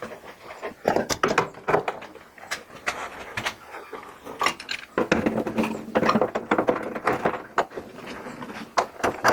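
Irregular knocks, taps and scrapes of steel truck-bed panels being handled and set in place, busiest about halfway through.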